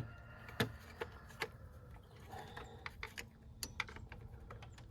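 Irregular small clicks and light clanks of hand tools and hardware being worked on engine-bay parts during coil pack removal, the loudest about half a second in, over a steady low hum.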